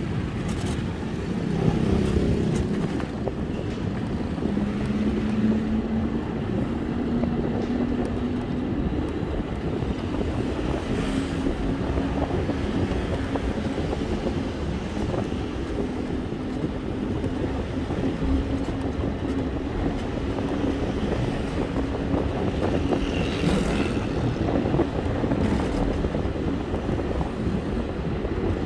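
Steady road and wind rumble from a moving ride through traffic, with a faint engine hum that slowly rises in pitch over the middle of the stretch.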